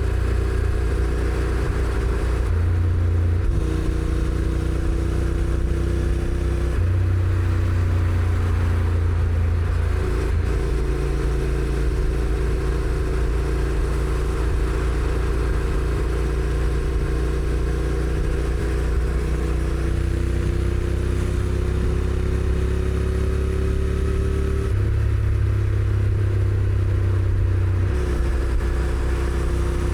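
Honda NC750X's parallel-twin engine running under way through its stock exhaust. The engine note steps in pitch several times as the dual-clutch gearbox changes gear, with a long, slow rise in revs through the middle.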